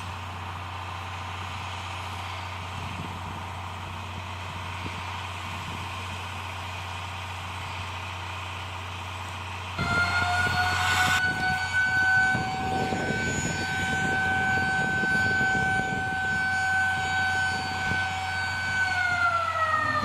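A steam locomotive's whistle sounds about ten seconds in, with a rush of steam at the start. It holds one long steady chord, then sags in pitch near the end as the steam is shut off. Before it there is only steady background noise with a low hum.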